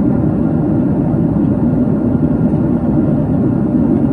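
Boeing 767 cabin noise: the steady, low roar of the jet engines and rushing air heard from inside the passenger cabin.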